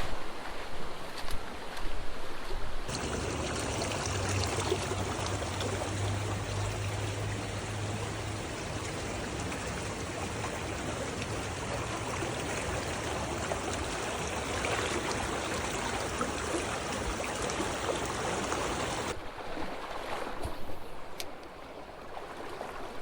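Creek water running over rocks, a steady rush. It gets louder suddenly about three seconds in and drops back just as suddenly near the end.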